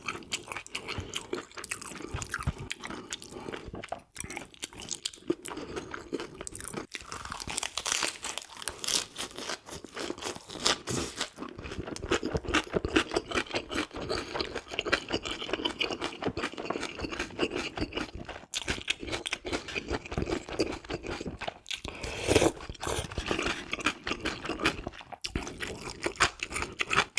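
A person eating close to the microphone: continuous chewing, with many short irregular clicks.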